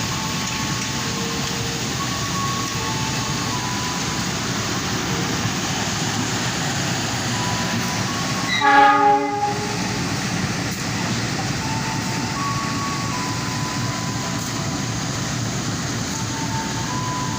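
A train running through the station with a steady rumble of wheels on rail. About eight and a half seconds in, its horn gives one short blast, the loudest sound. Faint high two-note tones sound on and off throughout.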